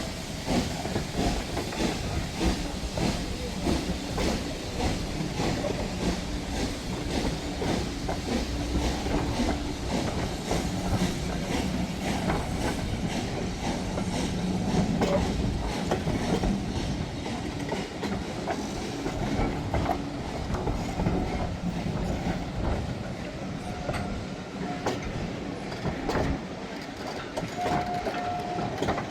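A train running along the track, its wheels clicking steadily over the rail joints under a continuous rumble.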